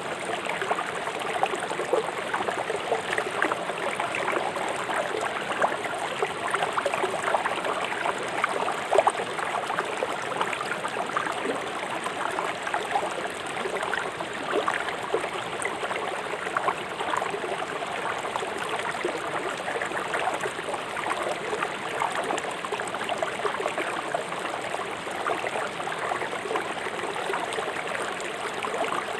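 Fast-flowing river water rushing over and around stones: a steady rush dotted with many small splashes.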